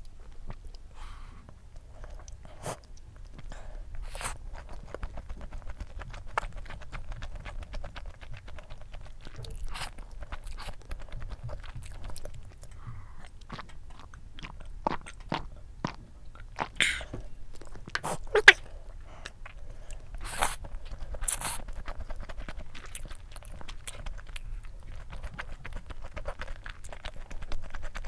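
Close-miked mukbang eating: chewing and mouth sounds of spicy stir-fried instant noodles and takoyaki, with many short sharp clicks scattered throughout, a few louder ones over half way through.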